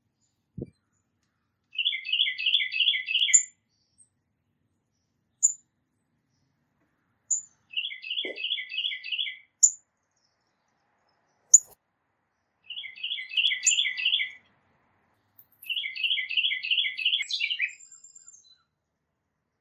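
Tufted titmouse singing its 'peter-peter-peter' song: four phrases of about six quick two-note whistles each, falling from high to lower within each note and a few seconds apart. Single short, very high chips from another small bird come in between the phrases.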